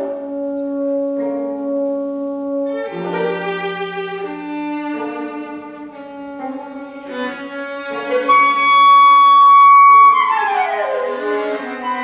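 Contemporary chamber ensemble of 25-string kayageum, flute, clarinet, horn, violin, cello and percussion playing overlapping sustained notes. A loud high note is held from about eight seconds in, then the notes slide down in pitch together near the end.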